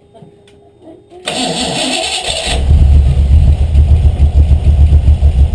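Carbureted 5.0-litre V8 in a Miata being started: the starter cranks for about a second, then the engine catches about two and a half seconds in and runs at a loud, pulsing idle. The idle is set low, which the owner suspects may be a bit too low.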